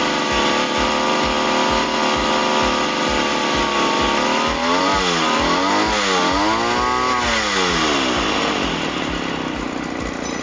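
Small brush cutter engine running steadily, then revved up and back down about three times in quick succession before dropping off near the end. It runs normally, with no odd noise, after its carbon-fouled spark plug was cleaned and its loose exhaust tightened.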